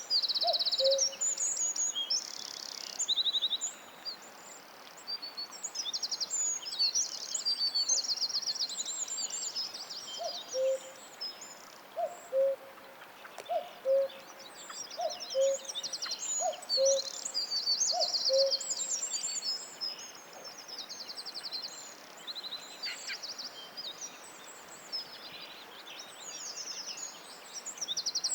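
Many forest songbirds singing together, with quick high trills and chirps overlapping throughout. A low two-note call repeats about every second and a half from about ten seconds in until about eighteen seconds.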